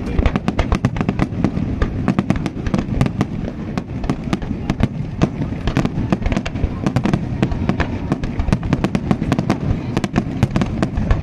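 Fireworks display in a dense barrage: many sharp cracks and bangs, several a second, over a continuous low rumble of bursting shells.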